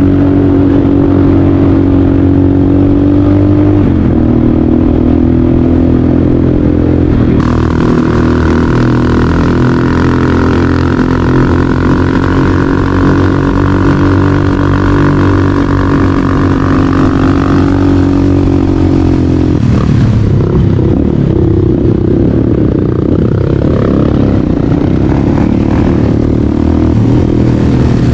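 Motorcycle engine running under way at a fairly steady speed. A higher whine rides over it for about ten seconds in the middle, and near the end the sound turns rougher and more uneven.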